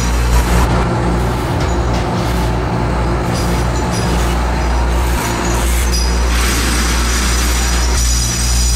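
Workshop machinery running with a steady low hum and a dense, noisy clatter over it.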